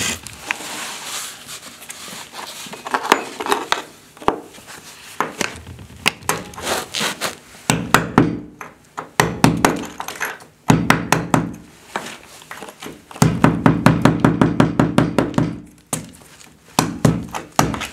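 Tool work on a wall: scattered knocks, then from about halfway through, several bursts of rapid even knocking at about ten strokes a second, each lasting one to two seconds.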